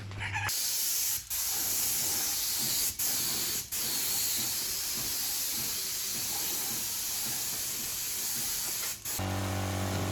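Paint spraying: a steady high hiss, briefly interrupted three times and again near the end. Guitar music comes in near the end.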